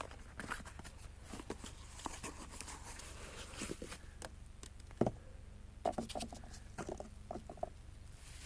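A new part being unpacked from its packaging by hand: irregular rustling and small clicks, with one sharper knock about five seconds in.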